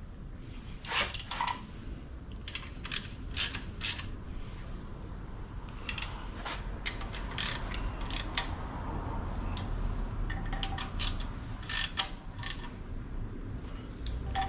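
Hand ratchet clicking in short, irregular runs while bolts are tightened on the engine, with scattered metallic clinks of tool and parts.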